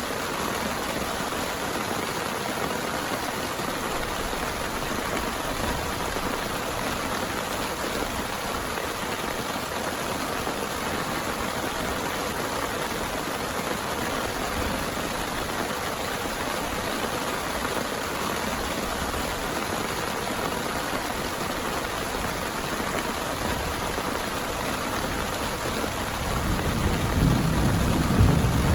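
Heavy rain falling steadily, an even hiss of drops. Near the end a low rumble of thunder rises and grows louder.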